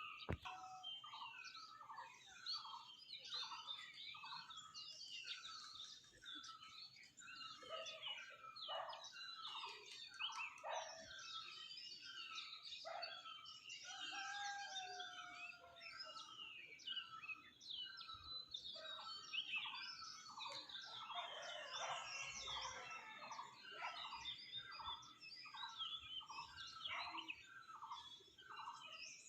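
Many birds calling at once in a morning chorus: one bird repeats a short falling note over and over beneath a dense mix of higher chirps and twitters from other birds.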